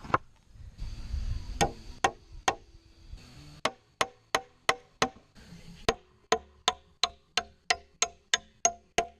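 Hammer blows on wood, each with a short ringing: a few spaced strikes, then from about a third of the way in a steady run of about three blows a second.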